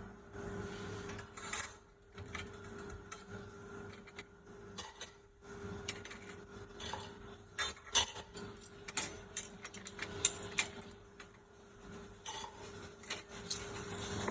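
Dishes and cutlery clinking and knocking against each other at an uneven pace, the kind of clatter made when they are loaded into a dishwasher's racks. The clinks come thickest in the middle of the stretch, over a faint steady hum.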